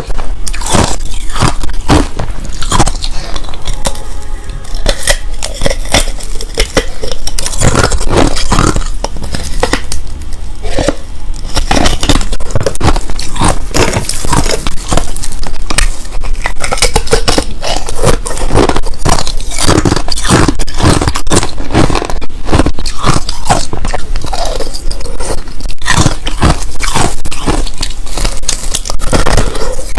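Crushed ice being bitten and chewed close to the microphone: a dense, irregular run of loud crunches and grinding, some of the ice clear and hard, some powdery and soft.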